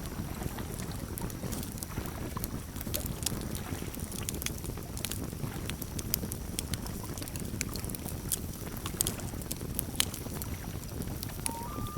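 Campfire burning, with irregular sharp crackles and pops over a low steady rumble of the flames. Near the end a single clear tone steps up slightly and holds: the start of a common loon's wail.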